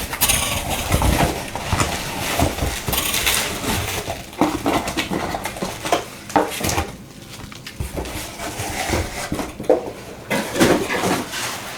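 Unpacking a box of nail supplies by hand: packaging rustling and small hard items clinking and knocking together at an irregular pace.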